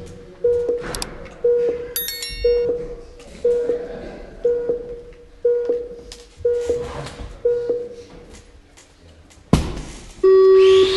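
Electronic race-start countdown from the timing system: short beeps of one pitch about once a second, then a sharp click and one longer, lower tone near the end that signals the start of the race.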